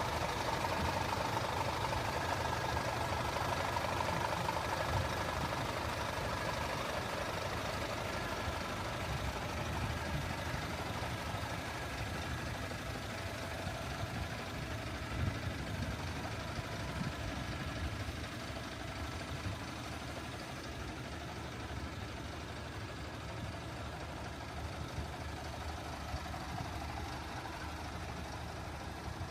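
Scania P410 truck's diesel engine idling steadily.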